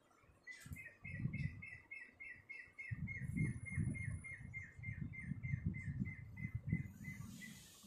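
A bird calling a long, even run of short chirps on one pitch, about four a second. From about three seconds in, louder low, irregular thumps sound underneath.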